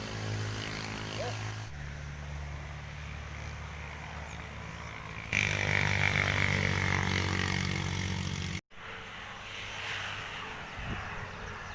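A steady mechanical drone of an engine or motor at a constant pitch. It changes abruptly about two seconds in, and again about five seconds in, where it gets louder, then cuts out for an instant near the end.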